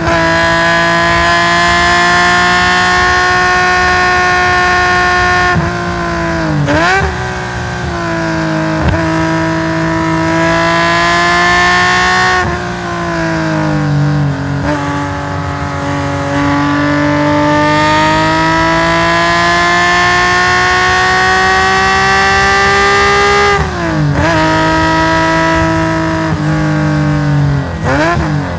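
Nissan S20 2.0-litre DOHC straight-six of a race-tuned Hakosuka Skyline GT-R at high revs on track, heard onboard through its stainless exhaust. It pulls hard at full throttle and lifts several times with quick throttle blips on downshifts, first about five seconds in and again near the end. In between, a long pull climbs steadily in pitch.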